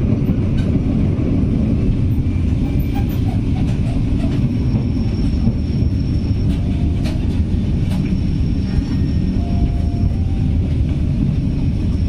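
Passenger train running along the track: a steady low rumble of wheels on rails with scattered clicks from the rail joints, and a faint high thin squeal in places.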